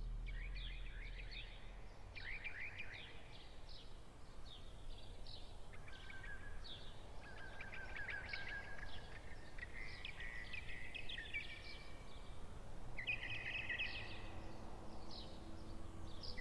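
Birds chirping and twittering: many short calls and quick trills, overlapping, over a low steady rumble.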